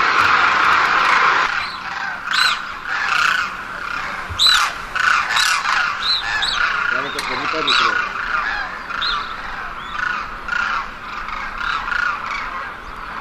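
A rushing noise that stops about a second and a half in, then many birds squawking in short, repeated, arching calls that overlap.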